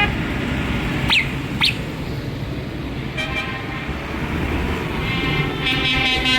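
Vehicle horns tooting in short blasts over the steady low rumble of passing tractor engines, with two quick falling whistles about a second in.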